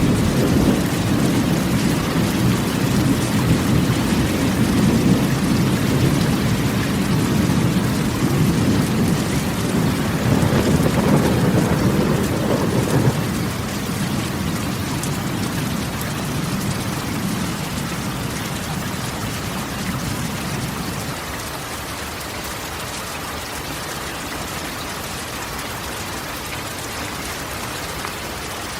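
Steady rain drumming on a corrugated metal roof, with a long roll of thunder rumbling underneath that weakens about halfway through and fades out around two-thirds of the way in.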